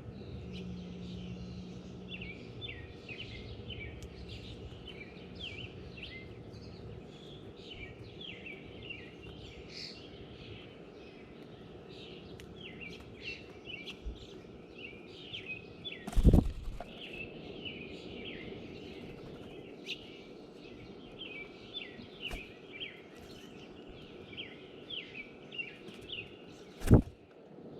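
Small songbirds chirping and singing, short calls repeating all through, over steady outdoor background noise. Two loud thumps, one a little past halfway and one near the end.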